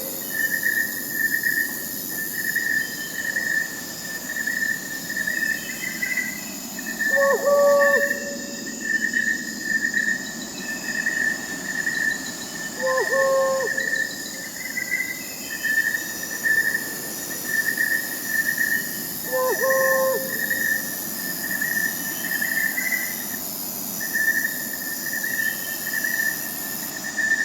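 Crickets chirping in a steady pulsing trill over a high insect hiss, with a short owl call four times, about every six seconds.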